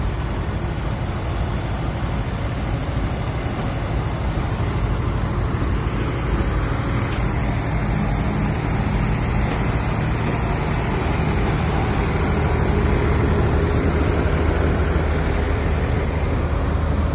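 Steady rumble of a train at a station, with coaches rolling past. About halfway through, the engine drone of a WDG-class diesel locomotive grows stronger and louder as it comes close alongside.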